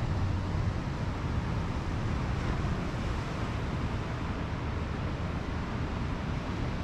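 Steady wash of Pacific Ocean surf with wind rumbling on the microphone.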